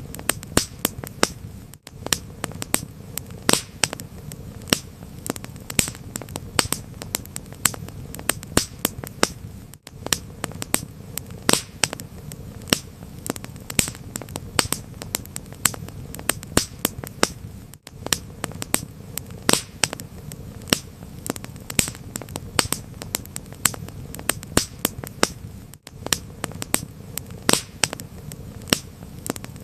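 Wood fire crackling: dense sharp pops and snaps, several a second, over a steady low rumble. A very brief dropout about every eight seconds suggests a looped recording.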